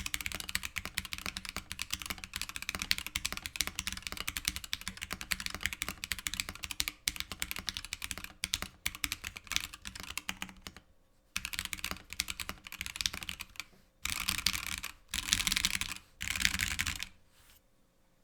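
Mechanical keyboard with stock, unlubed Gateron CJ linear switches in a polycarbonate case without foam, typed on steadily with clacky keystrokes. Near the end come three short flurries of rapid key presses, then the typing stops.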